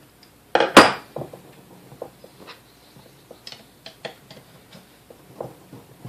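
Small metal mixer parts clinking and clattering as they are handled on a workbench: a loud double clatter about half a second in, then scattered light clicks and taps.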